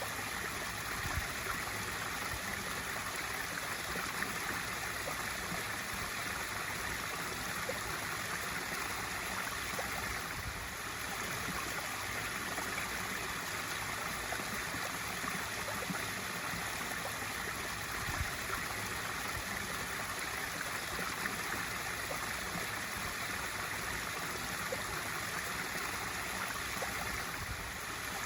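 Swimming pool waterfall feature spilling steadily into the pool, a continuous splashing and gurgling of falling water.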